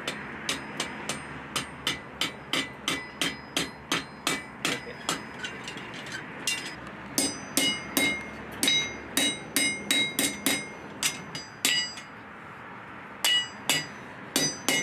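Blacksmith's hand hammer striking steel on an anvil: a steady run of ringing metallic blows, about three a second, with two short pauses.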